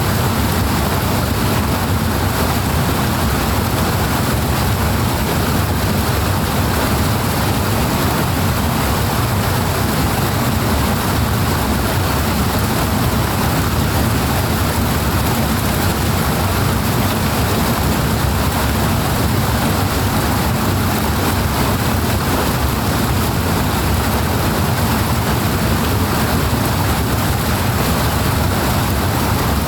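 Powerfully rushing water: a steady, heavy flow with a deep rumble underneath a constant hiss, never changing.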